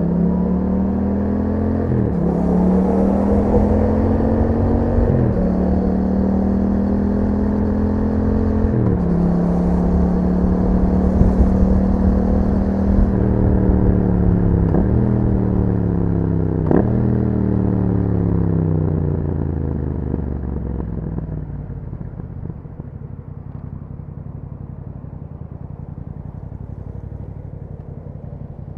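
Yamaha MT-07's parallel-twin engine through an Akrapovic exhaust, pulling hard up through the gears with quick upshifts about 2, 5 and 9 seconds in. It then slows with two downshifts around 15 and 17 seconds and drops to a low, steady rumble after about 21 seconds.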